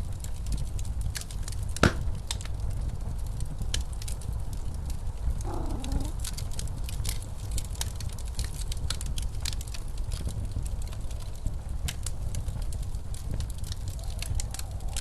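Fireplace crackling, with scattered sharp pops and one louder pop about two seconds in, over a steady low rumble of blizzard wind.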